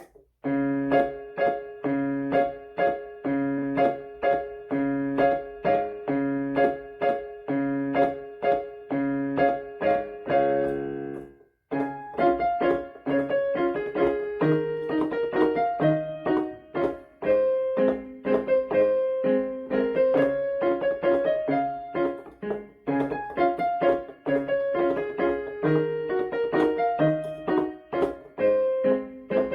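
Solo piano playing: a chord pattern repeated at an even beat for about eleven seconds, a brief break, then a melody played over the chords.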